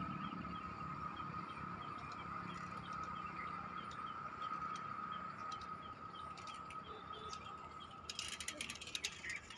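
Outdoor ambience of birds chirping over a steady high-pitched drone. Near the end comes a burst of clicking and rattling as a bicycle passes close.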